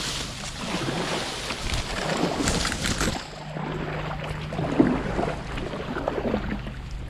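Kayak paddling on a river: irregular paddle strokes and splashing over running water.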